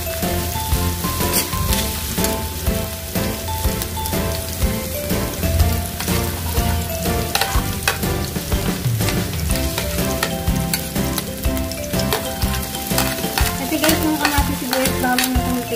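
Garlic, onion and tomato sautéing in hot oil in a pan, sizzling and crackling steadily while a spatula stirs them.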